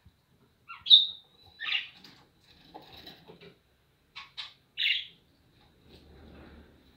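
Budgerigars chirping: a handful of short, sharp calls, the loudest about a second in and just before five seconds, with softer chatter between.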